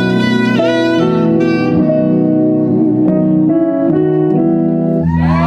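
Saxophone playing a melodic solo line of held and moving notes, some bent, over sustained keyboard chords. A crowd starts cheering near the end.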